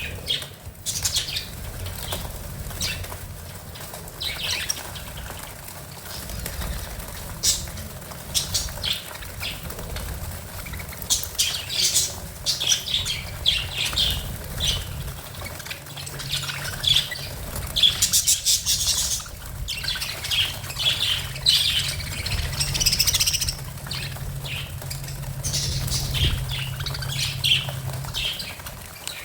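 Pet budgerigars chirping and chattering, with a dense run of short, high calls throughout.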